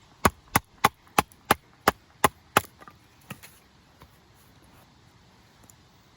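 Bush knife working wood: a rapid run of nine sharp wooden chops or knocks, about three a second, stopping under three seconds in, then one fainter knock.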